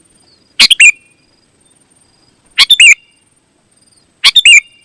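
Sooty-headed bulbul (kutilang) calling: three short, loud bubbly phrases about two seconds apart, with faint thin chirps in between.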